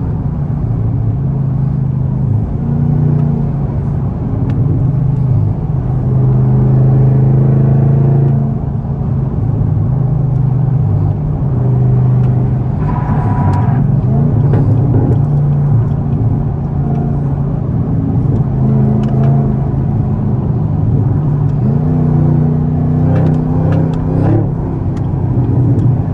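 Camaro ZL1's supercharged V8 running hard at highway speed, its engine note rising and falling several times.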